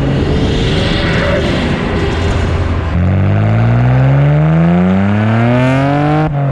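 Nissan Skyline R32 GT-R's RB26DETT twin-turbo straight-six, on an aftermarket exhaust and pod filters, pulling hard under load. About three seconds in it climbs in one long, steady rise in revs, then drops off sharply near the end and falls away.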